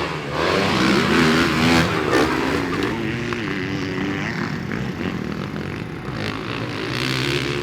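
Motocross bikes racing on the track, their engines revving up and down in pitch as they are ridden.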